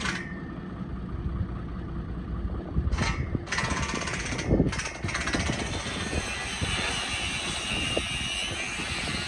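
Heavy machinery running at the borehole, with a steady rushing noise filling in from about halfway through.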